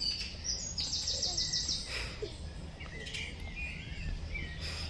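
Small birds singing: a rapid trill of about eight high notes about a second in, then scattered chirps, over a steady low background rumble.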